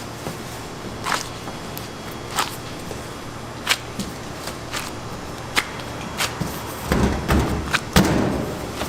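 Scattered sharp clicks and knocks, roughly one a second, from work at a food stall, with a heavier thump and clatter near the end.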